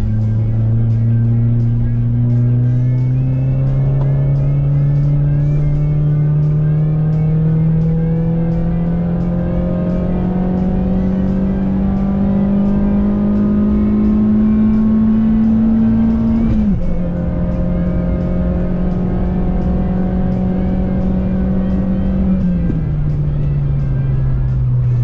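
Citroën C2 VTS's 1.6-litre four-cylinder petrol engine pulling on the road, its revs climbing slowly and steadily. About 17 seconds in the engine pitch drops sharply and holds, then eases lower near the end as the car slows.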